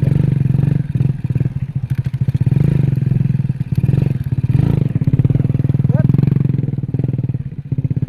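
Excavator's diesel engine running with a fast, even throb, its level swelling and dipping as it works. A short rising squeak comes about six seconds in.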